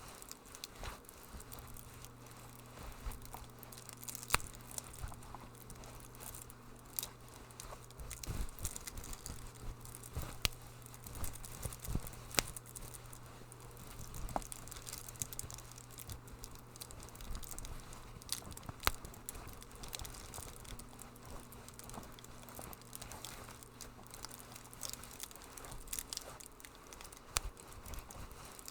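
Wood fire crackling in a fireplace, with irregular sharp pops and snaps of varying strength over a soft hiss, and a steady low hum underneath.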